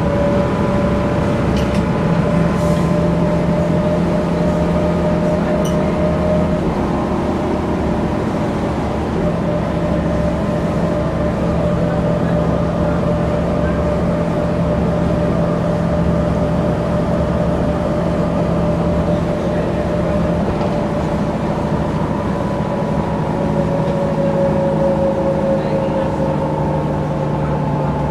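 Mercedes-Benz O405 N² city bus driving, heard from inside the passenger cabin: a steady diesel drone with a whining tone from the drivetrain with its Voith automatic gearbox, the whine's pitch dipping slightly near the end as the bus eases off.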